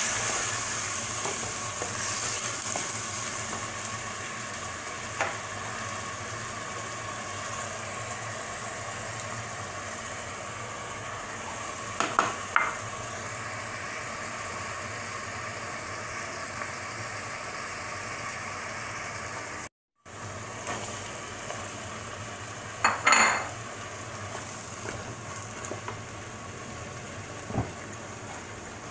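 Celery and squid stir-frying in a pan: a steady sizzle, with a few knocks and scrapes of a spatula against the pan. The sound drops out completely for a moment about twenty seconds in.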